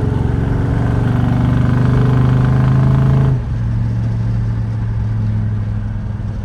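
Crate 350 V8 of a 1980 Chevrolet El Camino pulling under throttle while driving, then about three seconds in the throttle eases off and the engine note drops quieter as it cruises on.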